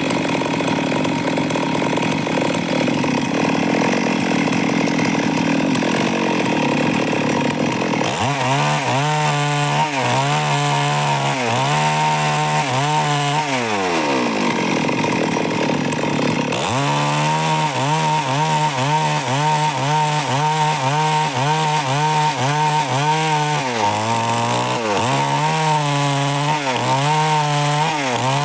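Stihl MS 382 two-stroke chainsaw running loud while sawing wood. For the first several seconds it is a steady roar; then the engine note becomes clearly pitched and keeps dipping and recovering.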